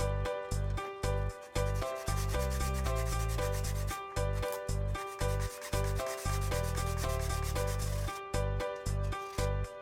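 Hand-sanding strokes, a rasping rub, over background music with a stepped bass line.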